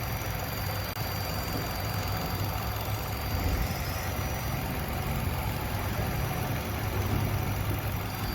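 2013 Nissan Altima's 2.5-litre four-cylinder engine running steadily at idle.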